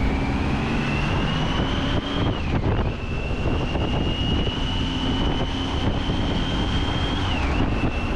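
Motorcycle engine under way with wind rushing past, its high whine climbing slowly in pitch as the bike gathers speed. The pitch dips sharply twice, about two and a half seconds in and again near the end, then climbs on.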